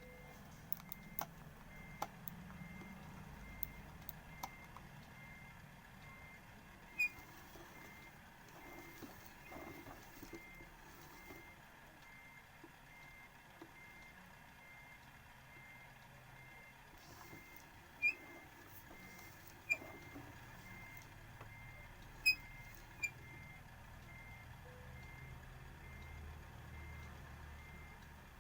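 A car's reversing warning beep: a high beep repeating about twice a second, with a few sharp clicks over it.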